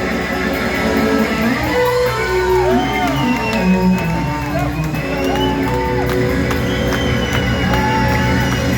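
Live blues band playing a slow blues, with an electric guitar lead bending notes up and back down over the band.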